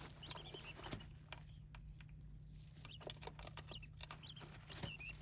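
Small birds scratching and pecking in rice-husk bedding: irregular light rustles and taps, with a few short high chirps.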